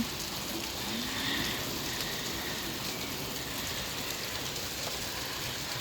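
Heavy rain pouring down steadily, a torrential downpour.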